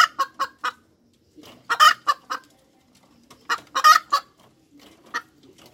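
Hen cackling: a run of short clucks, then two loud drawn-out squawks about two and four seconds in, and a last cluck near the end.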